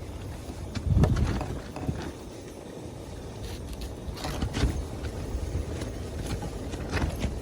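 Strong wind buffeting the microphone: an uneven low rumble that surges in gusts, the strongest about a second in.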